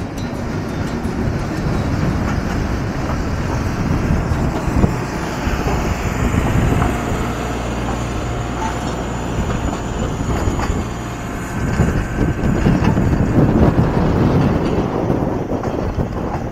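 Motorcycle engine running while riding, with steady rumbling wind noise on the microphone.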